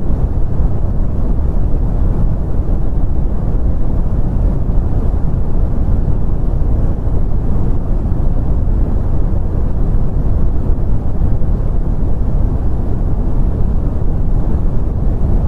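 Brown noise: a steady, deep rumbling hiss, strongest in the low end and falling away toward the highs, with no change.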